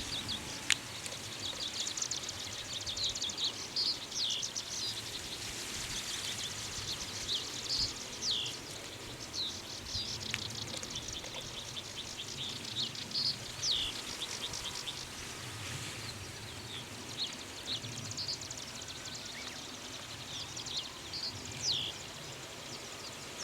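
Common reed bunting singing short, high phrases again and again, every second or two, over a dense background of faint high chirping and steady outdoor hiss.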